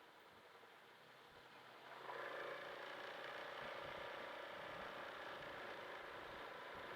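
Faint, steady running of a vehicle engine in traffic, starting about two seconds in after near silence and holding a constant note.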